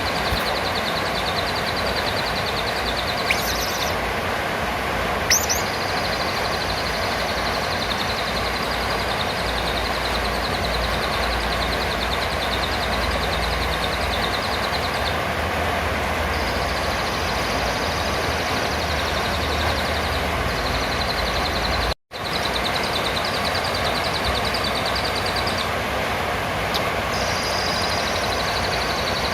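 A few short, shrill rising calls of a blue-crowned hanging parrot (serindit), about three and five seconds in, over a steady hiss and a high, fast-pulsing trill that stops and starts. The sound cuts out for an instant about 22 seconds in.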